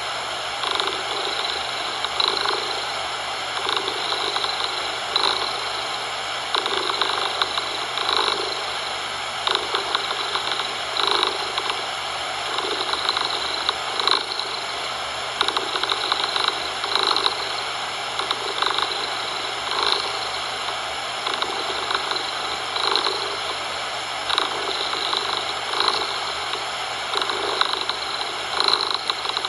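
A domestic cat purring close up, swelling and fading in slow, even cycles about a second and a half apart. It is layered over a steady bed of synthetic coloured noise.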